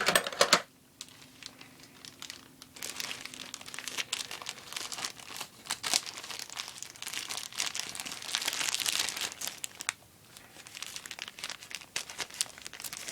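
Mailing bag crinkling and rustling as it is cut open with scissors and handled, with many small irregular clicks and crackles.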